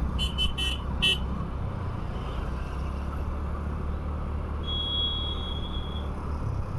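Vehicle horns in traffic: four quick short beeps in the first second or so, then a single steadier horn tone held for about a second midway. Under them runs the steady low rumble of the motorcycle running and road noise.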